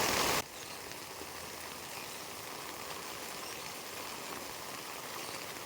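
Steady rain falling, an even hiss. A louder rush of rain noise cuts off abruptly less than half a second in, leaving the softer rainfall.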